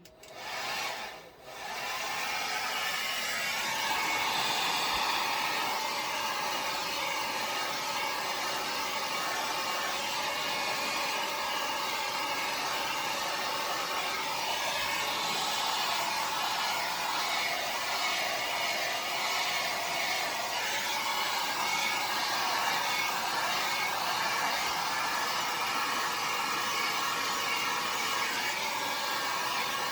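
Handheld hair dryer blowing, with a short burst and a brief break in the first two seconds, then running steadily. It is being used to push wet acrylic pour paint across a canvas.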